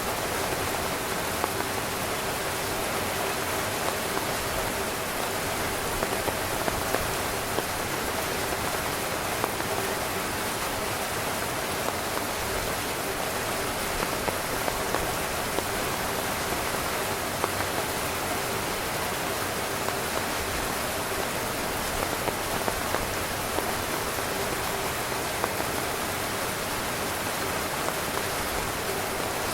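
Steady rain pattering on a tent, with frequent single drops landing a little louder than the rest.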